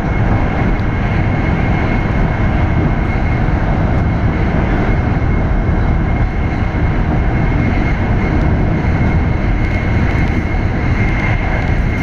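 Shinkansen train running at speed, heard inside the passenger cabin: a steady, even rumble of wheels and air, with a thin steady high whine over it.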